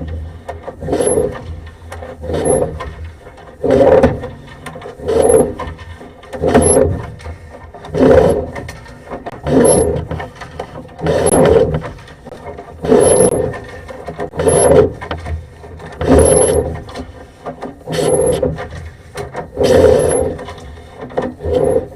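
Sewer camera push cable being fed into a drain line in strokes: a rubbing scrape repeating about every one and a half seconds.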